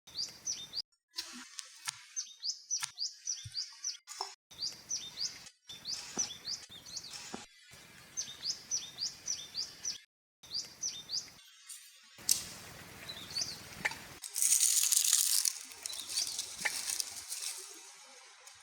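A small bird chirping over and over in quick, short, sweeping calls, broken by several abrupt silent cuts. Later a hissing rush of noise swells up loudly for a couple of seconds and fades.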